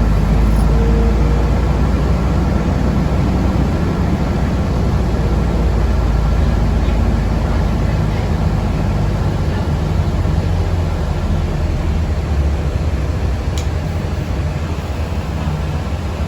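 Cabin noise of a moving city public-transport vehicle: a steady low rumble of running gear and road noise, easing off slightly near the end.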